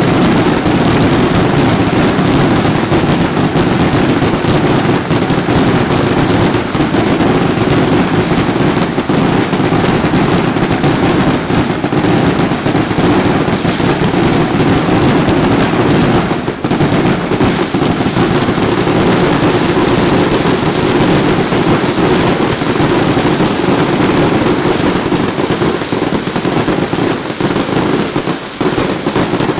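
Daylight fireworks barrage: rapid firecracker and aerial-bomb bangs running together into a continuous, loud crackling din, with a brief lull about halfway through and another near the end.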